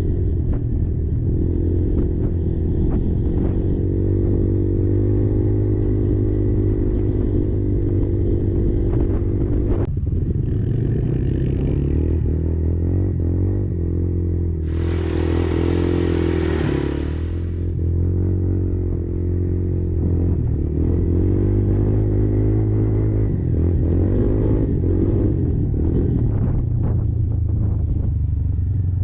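Kymco Maxxer 300 quad's single-cylinder four-stroke engine running, its pitch rising and falling a little, with clattering knocks from the machine over rough ground. About halfway through, a loud rushing noise lasts a couple of seconds.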